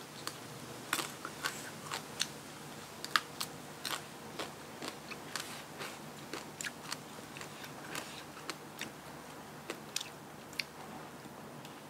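A person chewing crunchy food close to the microphone: a run of short, crisp crunches and mouth clicks at an irregular pace.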